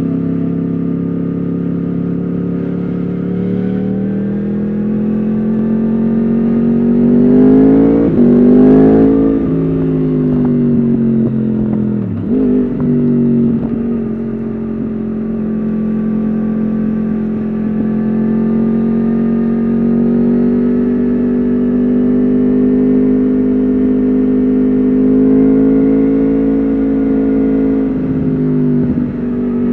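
A Yamaha R1 RN22's crossplane inline-four engine running through an Akrapovič exhaust on the move. Its note rises under acceleration about eight seconds in, drops sharply about twelve seconds in, then holds a steady cruising note, with a brief dip and a rise near the end.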